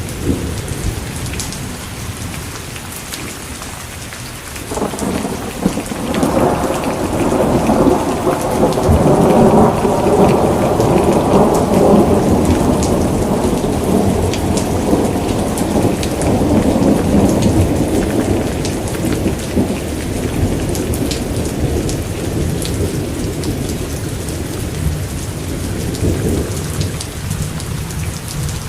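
Steady rain with individual drops ticking. About five seconds in, a long roll of thunder starts, swells to its loudest over the next several seconds and slowly rumbles away over some twenty seconds.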